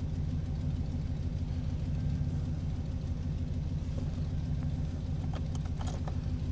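A vehicle engine idling steadily as the donor for a jump start, charging a dead battery through jumper cables. A few faint clicks near the end.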